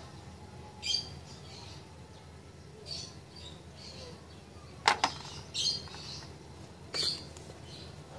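A small bird chirping in short calls about every two seconds, with two sharp clicks close together about five seconds in, the loudest sounds, as a plastic push-button selector switch is handled.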